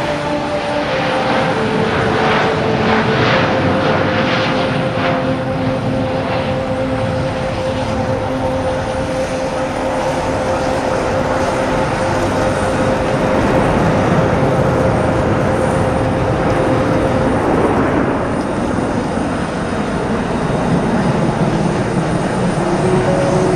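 Airplane engine noise from an aircraft in flight: a loud, steady rushing sound with a held tone through most of it.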